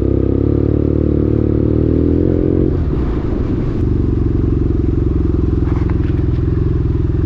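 Motorcycle engine running, heard from the bike. It climbs slightly in pitch, then drops off about three seconds in and settles into a steady lower note.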